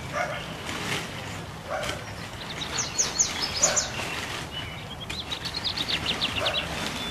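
A songbird singing: a run of quick, high, downward-sliding chirps about three seconds in, then a fast trill of short high notes near the end.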